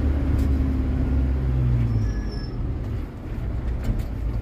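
Heavy truck's engine running as the truck is driven, a steady low hum that eases slightly about three seconds in.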